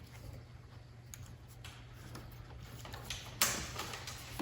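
A few faint clicks and taps from hands working on engine-bay parts, the clearest a little past three seconds in, over a steady low hum.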